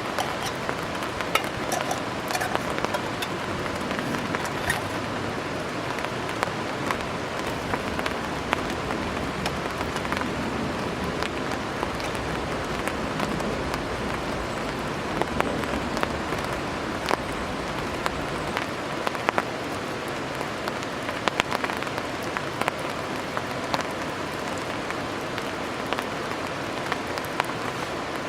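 Steady rain falling, with many sharp individual drops tapping close by, as on a poncho rigged overhead as a shelter.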